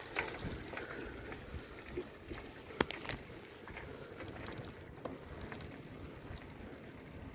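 Bicycle in motion: steady rolling noise, with two sharp clicks or rattles about three seconds in.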